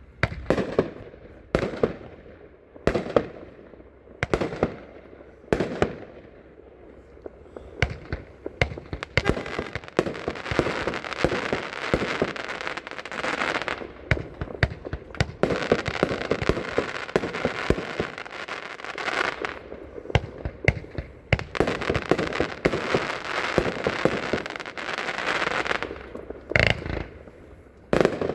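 A 25-shot consumer fireworks cake firing. First come separate sharp shots a second or two apart. From about nine seconds in, a dense continuous crackle runs until a few loud final reports near the end.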